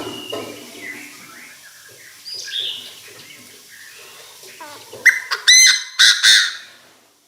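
Decoy Chinese francolin calling: a quick series of loud, harsh notes about five seconds in, after fainter sounds, a call used to summon other francolins.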